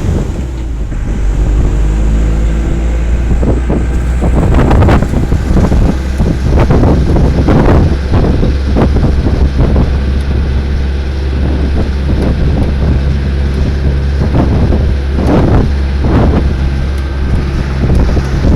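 Steady low engine drone of a moving vehicle, with wind buffeting the microphone in irregular surges.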